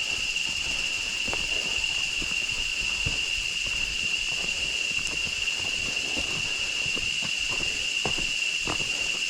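A steady, high, unbroken insect chorus of the tropical forest, with irregular footsteps on the trail.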